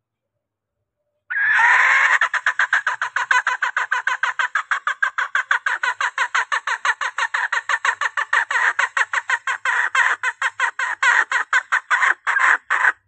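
Female junglefowl (hen) calling in a rapid, even run of clucks, several a second, starting abruptly about a second in and cutting off just before the end. It is a hen's call that draws in males.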